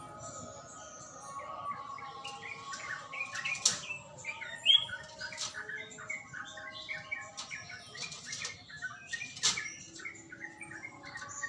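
Yellow-vented bulbul (trucukan) singing a rapid, continuous run of short chirped notes, with two sharp clicks partway through.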